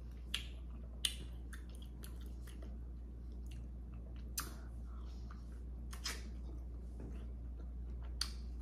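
A person chewing seafood boil close to the microphone, with sharp mouth clicks now and then over a low steady hum.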